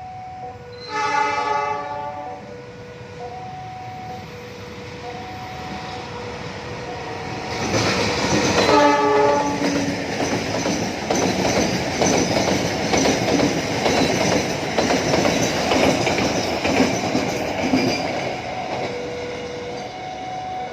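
Train horn sounds briefly about a second in, then again at about nine seconds as the train arrives; the train then runs past for about ten seconds, wheels clattering over the rail joints, and fades near the end. Throughout, a level-crossing warning alarm alternates slowly between two tones.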